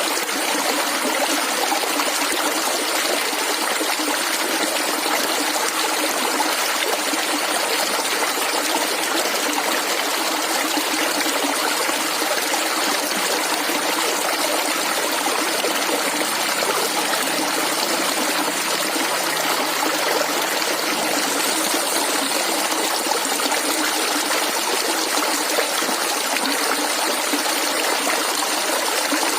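Shallow stream water flowing and gurgling steadily over stones.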